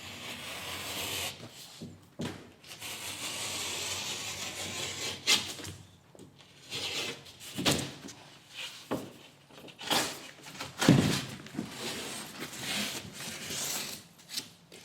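Utility knife cutting a piece of drywall: a long scraping stroke through the paper and gypsum, then a run of shorter scraping strokes with several sharp knocks.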